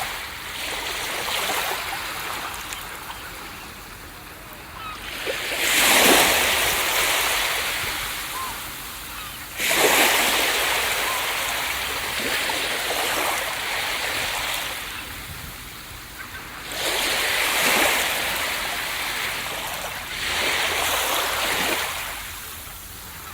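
Ocean waves breaking on a beach one after another: four breaks, each a rush of surf that washes back and fades over a few seconds.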